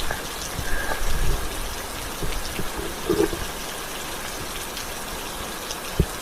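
Steady rain falling, an even hiss, with a few soft low thuds and one sharp knock near the end.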